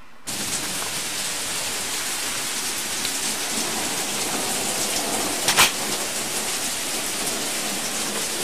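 Heavy rain falling and pattering on a surface, starting suddenly just after the start, with one sharp knock a little past halfway.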